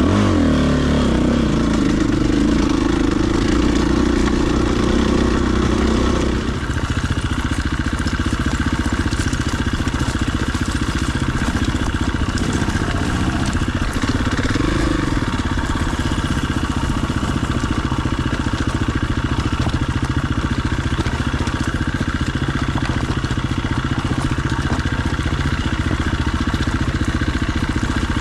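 Enduro dirt bike engine running as the bike is ridden. The revs drop right at the start, and the engine settles into a steady low drone about six seconds in, with a brief rise in revs about halfway through.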